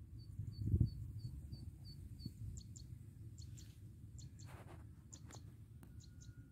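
Small birds chirping: a quick run of high chirps, about three a second, then sharper paired high calls, over a steady low rumble.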